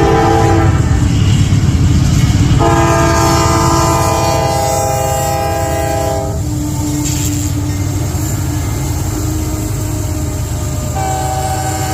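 Freight locomotive's multi-chime air horn sounding over the steady low rumble of the passing train: a short blast at the start, a long blast of about three and a half seconds beginning about three seconds in, and another blast starting near the end.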